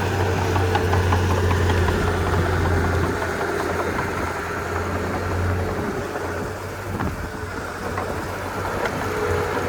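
Komatsu D31P crawler bulldozer's diesel engine running with a steady low hum and scattered clicks. It eases off a little about six seconds in and picks up again near the end.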